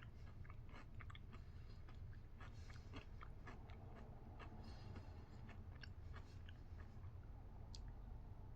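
Faint close-up chewing of a milk chocolate bar with crunchy waffle cone pieces: irregular small crunches and mouth clicks, several a second.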